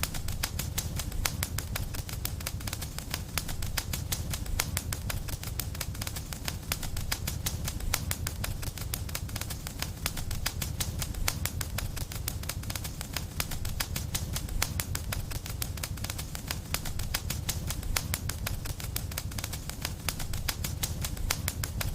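Wood fire crackling in a fireplace: constant, dense pops and snaps over a steady low rumble.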